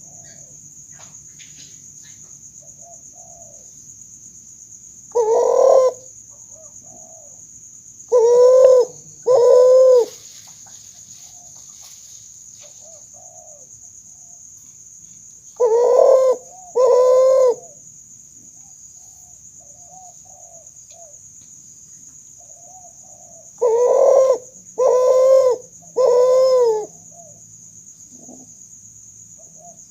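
Kuter, a hybrid of spotted dove and Barbary dove, cooing: loud, short, arching coos in groups, one, then two pairs, then three in a row near the end.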